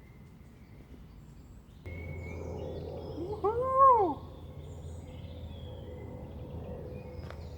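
An animal's single drawn-out, meow-like call that rises and then falls in pitch, about halfway through, over a low steady background that comes up about two seconds in.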